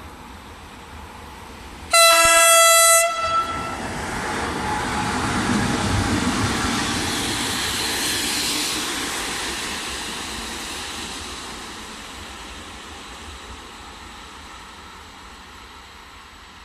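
Train horn sounding one blast of about a second, then a passing train whose noise swells to a peak and slowly fades away.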